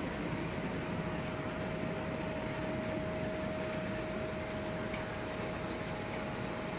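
Potato unloading conveyor and separator running: a steady mechanical rumble and rattle with a constant whine held over it.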